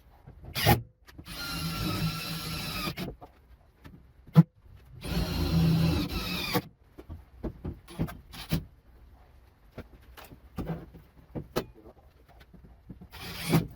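Hand-held power drill whining in two bursts of about two seconds each, with short clicks and knocks of handling tools and metal between.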